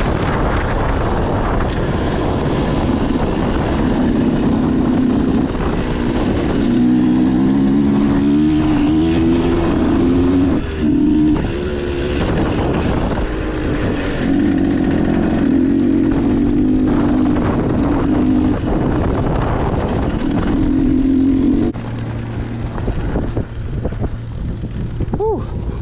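Motocross dirt bike engine being ridden, its pitch rising and falling with the throttle through a few brief lifts. About 22 seconds in it drops to a steady idle.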